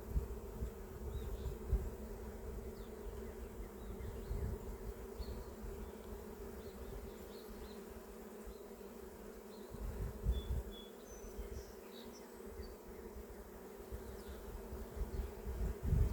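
Honey bees buzzing steadily around an opened hive during a frame inspection, with a low rumble that swells briefly about ten seconds in.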